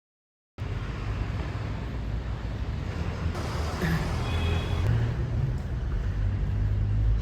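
Steady low rumble and road noise of a moving vehicle, heard from inside it, cutting in abruptly after half a second of silence and slowly growing a little louder.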